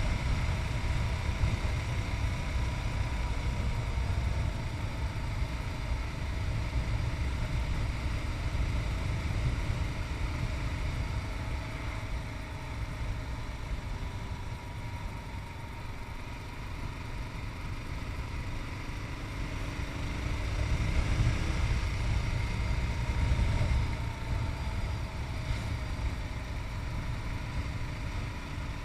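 Yamaha MT-03's 660cc single-cylinder engine running under way, heard from the rider's chest under heavy wind rumble on the microphone. The engine pitch rises about twenty seconds in and drops back sharply near twenty-four seconds.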